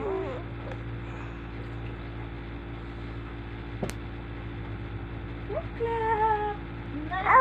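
A baby fussing: a short, whiny, slightly wavering vocal sound about six seconds in and another starting near the end, over a steady low hum, with a single sharp click about four seconds in.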